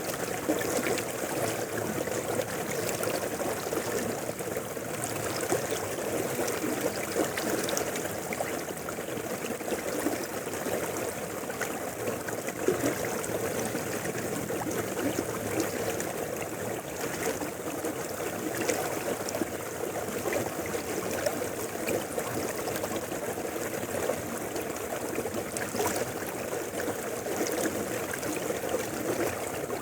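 Mountain river flowing steadily over rocks, a continuous rushing with small gurgles and splashes.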